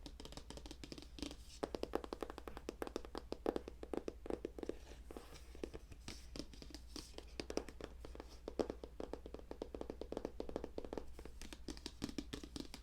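Fast tapping on a hard object, many taps a second in uneven flurries, close to the microphone.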